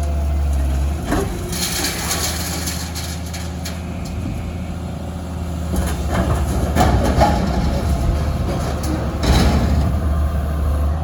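Excavator's diesel engine running steadily, with bursts of metal clanking and scraping as it works the dumpsters: about a second in, around six to seven seconds, and near nine seconds.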